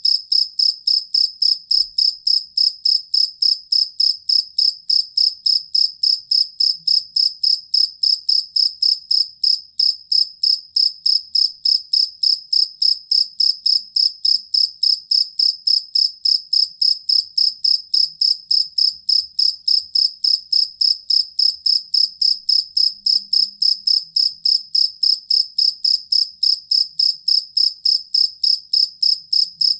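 Two-spotted field cricket (jangkrik kalung) chirping steadily: a high, even pulsing of about four chirps a second.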